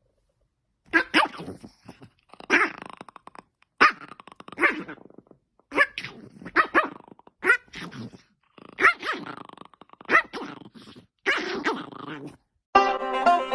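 A dog barking and growling in a run of short, sharp barks, roughly one or two a second. A plucked banjo tune starts near the end.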